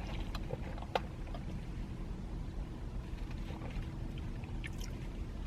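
Steady low background rumble with a few faint, short clicks, the clearest about a second in.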